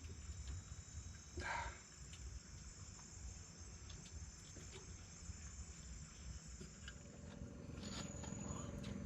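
Night insects such as crickets chirring steadily in high thin tones, over a faint low rumble. A brief rustle comes about a second and a half in, and a faint steady hum starts up near the end.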